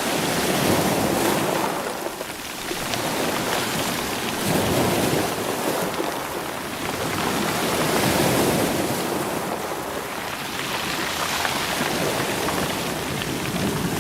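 Sea waves washing over a shore of stones, the rocks rolling and rattling in the surf. A continuous rushing wash that swells and eases every three to four seconds.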